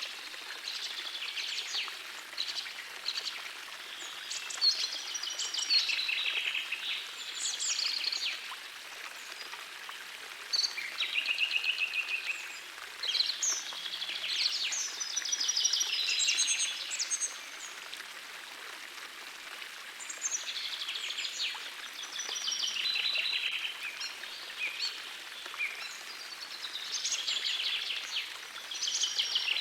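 Songbirds singing in phrases of a few seconds, several phrases with short gaps between, over the steady rush of a small forest stream.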